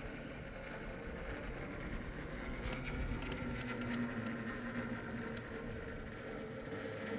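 Steady rush of a fast mountain river, with a faint hum running under it and a run of light ticks about three to four seconds in.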